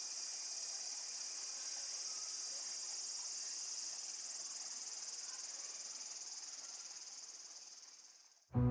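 Steady high-pitched insect chorus, fading out near the end. Music comes in right at the close.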